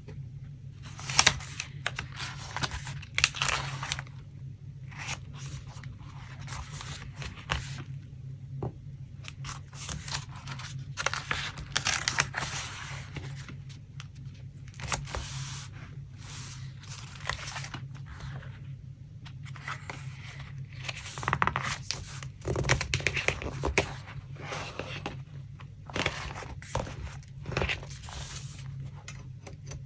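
Collage paper being handled: irregular rustling, scraping and tearing of paper sheets and scraps, over a steady low hum.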